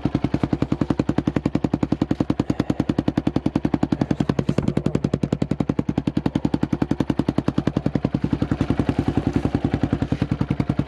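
Motorcycle engine running steadily at low revs, close to the microphone. Its exhaust pulses come as a rapid, even beat.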